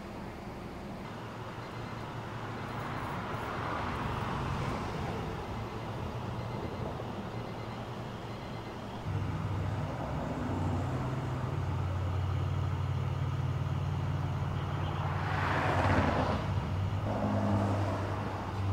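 Freeway traffic passing, with vehicles whooshing by twice: about four seconds in and again near the end. About halfway through a steady low engine drone starts and runs under them.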